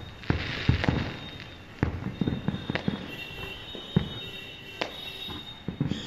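Aerial fireworks bursting: an irregular string of sharp bangs and crackles, several a second at times, with a faint high whistle through the middle.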